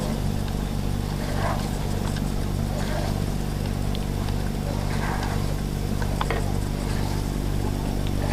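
An engine idling steadily at an even pitch, with faint voices now and then and a couple of sharp clicks about six seconds in.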